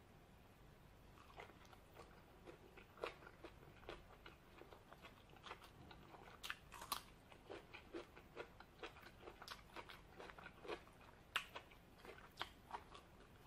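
A person chewing crunchy food from a plate of Thai green papaya salad, close to the microphone: faint, irregular crisp crunches, two or three a second, starting about a second and a half in.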